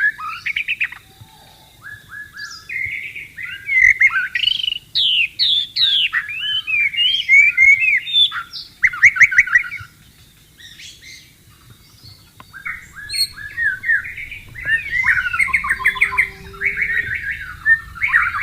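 White-rumped shama (murai batu) singing a long run of varied whistled phrases and fast trills, with short pauses about a second in and again around ten seconds in.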